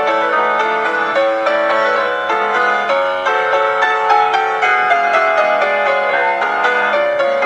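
Solo piano playing a classical piece, a quick run of notes over held chords.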